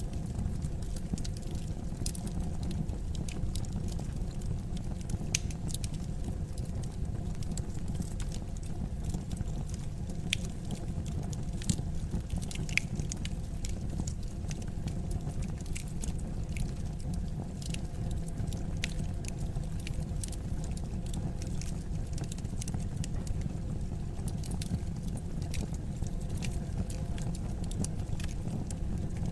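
Fireplace fire crackling: a steady low rumble with scattered sharp pops and snaps, a couple of them louder near the middle.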